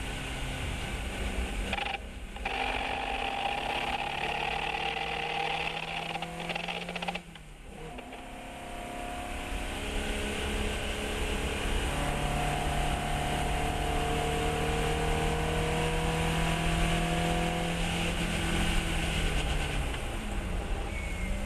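Fiat 132 race car's four-cylinder engine at full throttle, revving up through the gears: the pitch climbs, cuts off briefly at two upshifts about two and seven seconds in, climbs again in one long pull, then drops near the end as the driver lifts.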